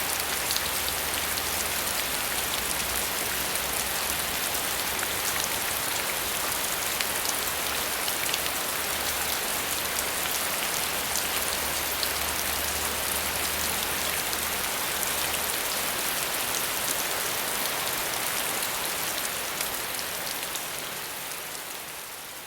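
Steady heavy rain falling: a dense, even hiss with fine drop patter, with a faint low rumble underneath that stops about two thirds of the way through. The rain fades out gradually near the end.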